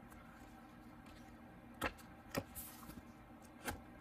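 A few short clicks and a brief rustle from a paper notebook being handled and opened, over faint room tone.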